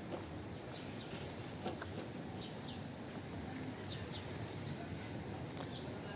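A small bird chirping over steady background noise: short, falling chirps, mostly in pairs, repeating roughly every second. Two sharp clicks, one about a second and a half in and one near the end.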